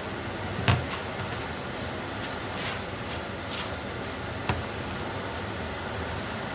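Teriyaki chicken sizzling steadily in a pan on the stove, with two sharp knocks, the louder one about a second in and another near two-thirds of the way through.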